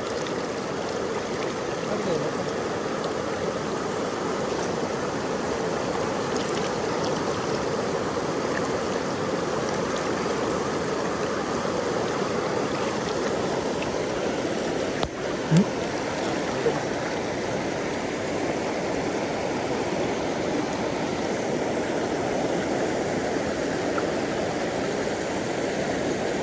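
River water rushing steadily over a rocky bed, a constant even rush, with one brief short sound about halfway through.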